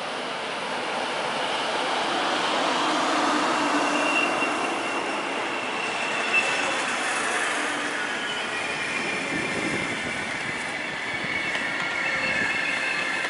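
DB Regio double-deck coaches rolling past the platform behind an electric locomotive, with a steady rolling noise and high squealing tones from the running gear that grow in number near the end. One short clack about six seconds in.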